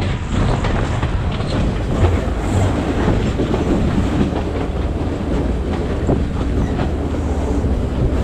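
Passenger train running along the track: a steady rumble of the carriage with wheels clicking and clacking over the rail joints.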